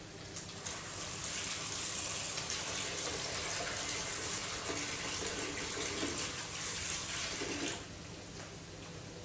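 Water running for about seven seconds, starting shortly after the beginning and stopping sharply near the end.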